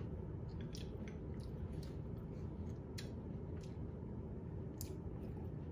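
A person eating rice with chopsticks: quiet chewing with a few small, sharp clicks about once a second, over a steady low hum.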